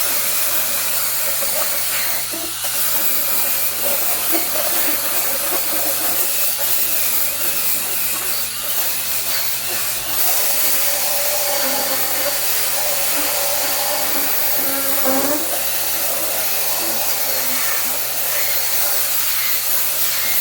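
Power drill spinning a scrub brush over wet floor mats, a steady motor whir with a constant hiss of bristles and water.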